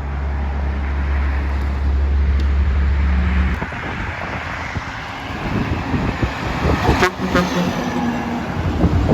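Passing truck's engine giving a steady low drone that stops abruptly about three and a half seconds in, followed by the road noise of traffic going by.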